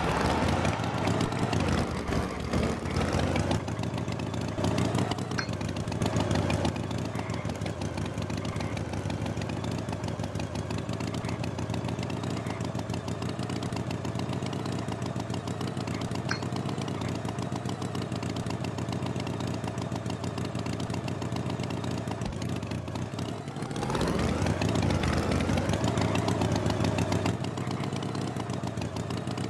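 Tractor engine sound effect running steadily, growing louder with a rise in pitch near the end.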